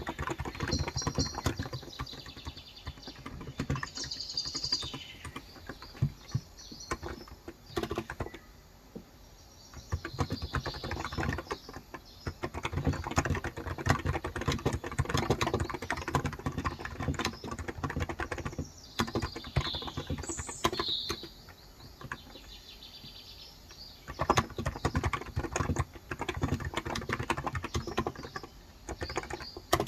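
Typing on a Cox Endeavor electrostatic capacitive keyboard with 35 g switches: fast runs of soft keystrokes broken by short pauses. Birds chirp in the background.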